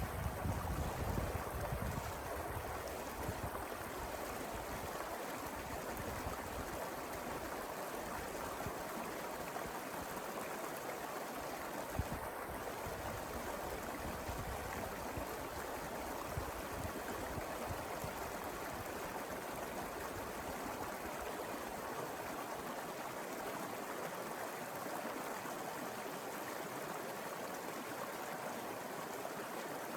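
Mountain river flowing steadily over its bed, a continuous even rush of water. A low rumble is added in the first few seconds.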